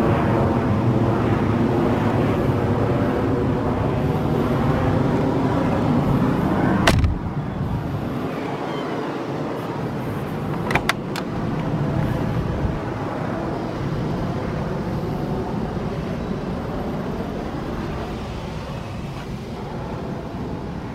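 A steady motor hum at an even pitch, which drops off sharply with a click about seven seconds in. A couple more clicks come about eleven seconds in, under a quieter hum.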